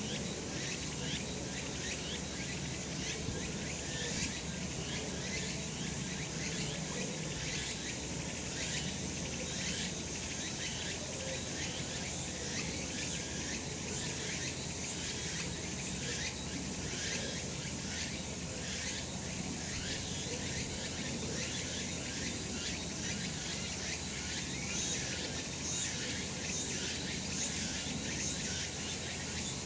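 Cicadas singing in chorus: a dense, steady high buzzing made of fast repeated pulses.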